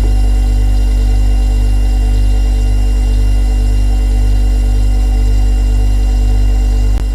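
Refrigerator running with a steady low hum from its compressor and a set of constant tones above it, with a brief click and slight drop in level near the end.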